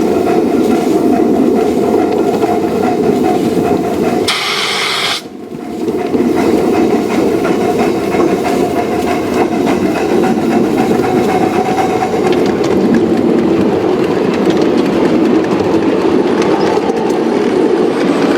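A train running steadily along the track, with a brief hiss about four seconds in followed by a short drop in level.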